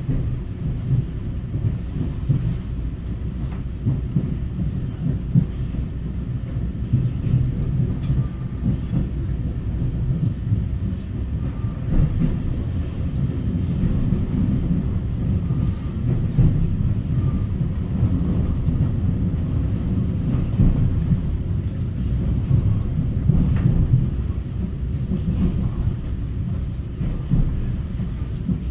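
Steady low rumble of a Taiwan Railway EMU900 electric multiple unit running on the rails, heard from inside the passenger car as the train approaches a station.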